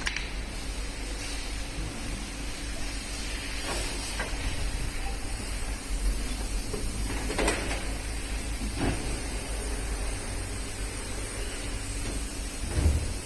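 Hand tools handled on an engine being stripped down: scattered clinks and scrapes, a few seconds apart, over a low steady hum.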